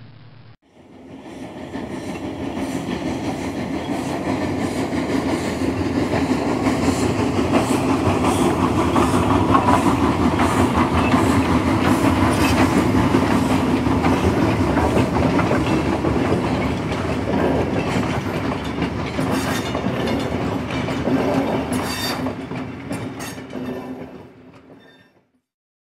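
A train passing, its wheels clicking and clattering over the rails. It starts about half a second in, swells to its loudest around the middle with a few sharp clicks later on, and fades out near the end.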